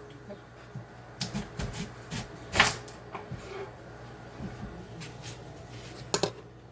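Kitchen handling sounds while white yam is peeled and cut: scattered small knocks and scrapes, with a louder knock about two and a half seconds in and another near the end.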